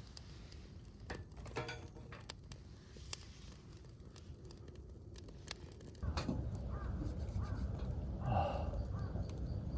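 A crow cawing a few times in the second half, over a low rumble of wind on the microphone; scattered sharp clicks earlier on.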